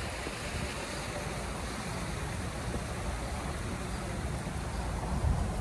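Steady rushing of a garden waterfall, with an uneven low rumble of wind on the microphone.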